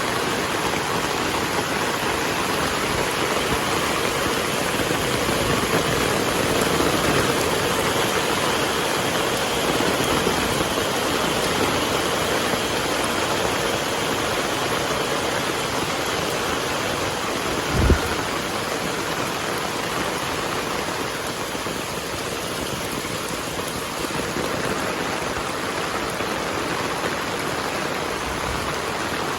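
Heavy rain falling steadily. A single brief low thump stands out about two-thirds of the way through.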